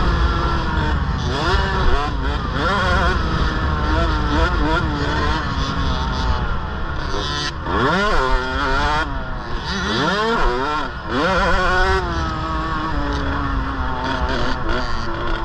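KTM 65 two-stroke mini dirt bike engine revving up and down as it is ridden, its pitch climbing sharply twice, about eight and ten seconds in.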